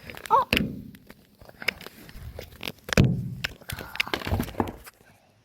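Handling noise from a phone held by a toddler: irregular knocks and rubbing, with a loud thump about three seconds in. A child's brief high vocal sound comes near the start.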